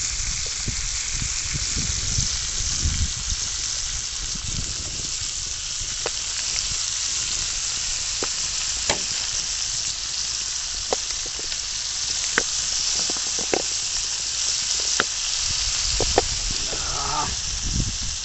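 Chicken breast frying in butter on a tawa griddle: a steady sizzle with scattered sharp pops.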